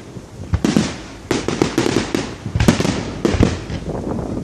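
Fireworks going off: a rapid string of sharp bangs and crackles, few at first and coming thick and fast from about a second and a half in.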